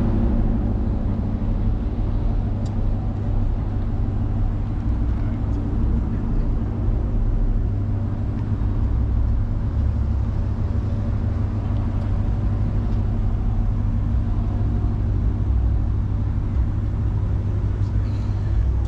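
A car engine running steadily, with a deep, even rumble.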